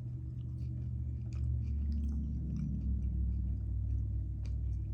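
A person chewing a crunchy snack close to the microphone: a steady low rumble of chewing with scattered small crunches and mouth clicks.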